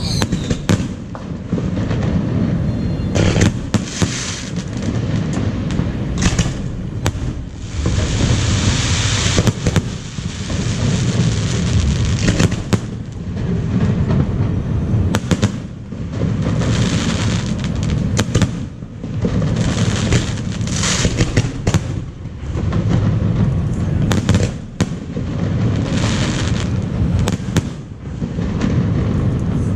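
Aerial fireworks display: repeated sharp shell bursts and stretches of crackling over a continuous low rumble.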